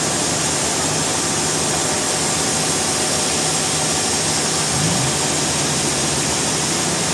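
Sawmill machinery running steadily: a dense, even noise with a low engine hum underneath.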